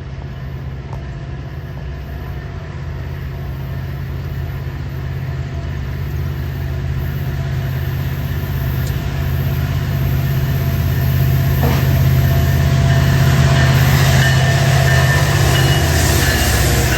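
Diesel locomotive of a slow freight train working hard under load, its low engine drone growing steadily louder as the train approaches; the lead unit is a Norfolk Southern EMD SD70ACe. Wheel and rail noise builds toward the end.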